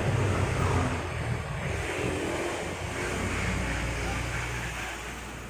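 Steady low rumble of background noise, fading out near the end.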